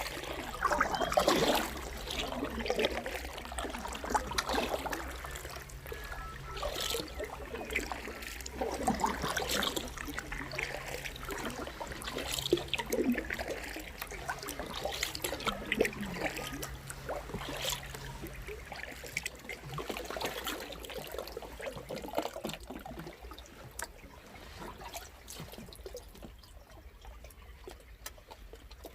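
Canoe paddle strokes in calm water, each one followed by water trickling and dripping off the blade, every second or two. A faint low hum runs underneath and stops about two-thirds of the way through.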